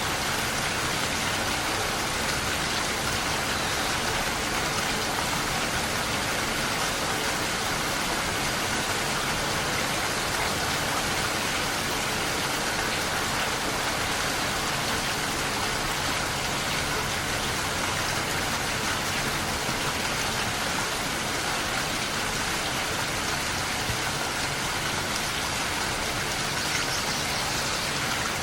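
Steady rainfall, drops pattering on a surface in a constant even hiss.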